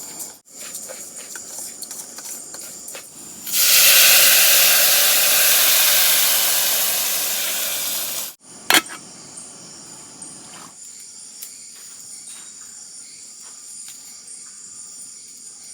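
A loud sizzling hiss starts suddenly about three and a half seconds in, fades slowly for about five seconds and cuts off, typical of food going into hot frying oil; a single sharp click follows. Steady high-pitched insect calls run underneath.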